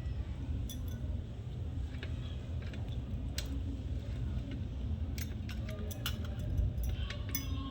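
Close-miked eating: scattered sharp clicks and clinks, more frequent in the second half, over a steady low hum.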